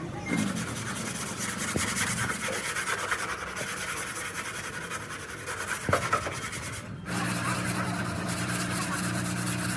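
Abrasive sanding or rubbing on car bodywork, a dense scraping noise, for about seven seconds. It then stops abruptly and a steady low machine hum takes over.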